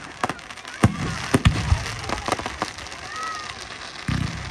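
Fireworks going off: a string of sharp bangs and crackles at irregular intervals, with spectators' voices in the background.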